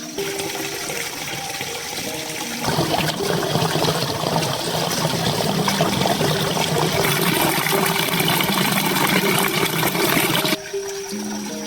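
Running water, a steady rushing and splashing that grows much louder about two and a half seconds in and cuts off abruptly near the end, over soft background music.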